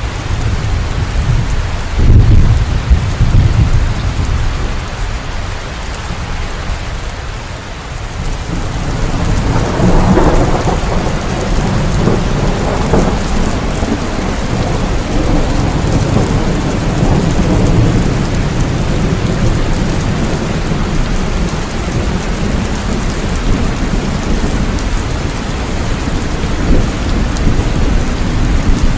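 Steady rain with thunder: a low rumble breaks in about two seconds in and fades, then a longer rolling rumble builds about ten seconds in and slowly dies away under the rain.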